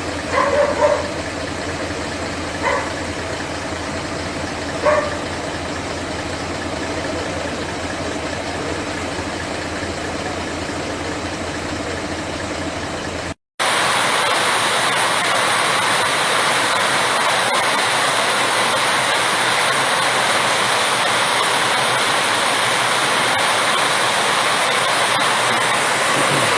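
Steady rush of heavy rain and running floodwater, with a few short sharp sounds in the first seconds. About halfway through the sound cuts out briefly, then comes back as a louder, fuller rush of water.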